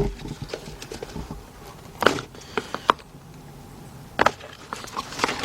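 Flat screwdriver prying and scraping at a tight hose on a push-mower carburetor: scattered sharp clicks and scrapes of metal on plastic and rubber, in small clusters about two, three, four and five seconds in.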